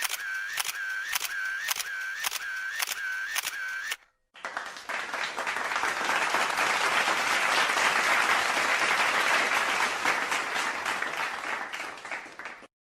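Camera shutter sound effect clicking rapidly, about three times a second, for about four seconds. Then a round of applause that swells and dies away.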